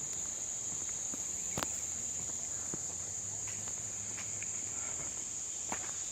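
Steady high-pitched insect chorus, one unbroken shrill tone, with a couple of faint clicks.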